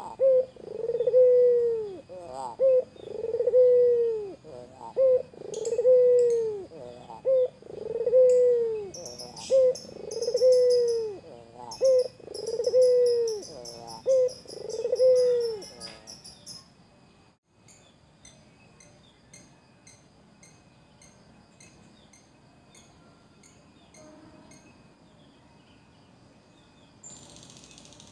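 White domestic turtle dove (puter) cooing in a repeated phrase, a short note followed by a long, low, arching coo, about every two and a half seconds. The cooing stops about 15 seconds in, leaving faint high chirping.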